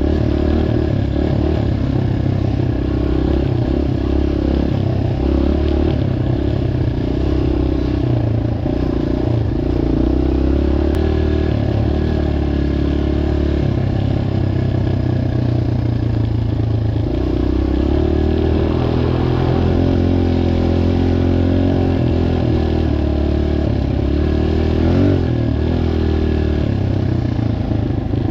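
Dirt bike engine running continuously, its pitch shifting up and down with the throttle.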